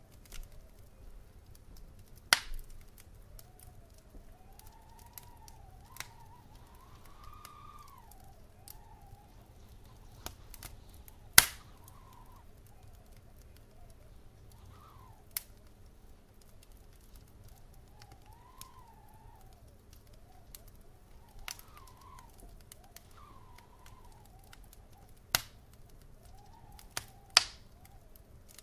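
Wood fire crackling in a fireplace: scattered small ticks and a handful of sharp loud pops, the loudest about eleven seconds in, over a soft low rumble. A faint whistle wavers up and down underneath.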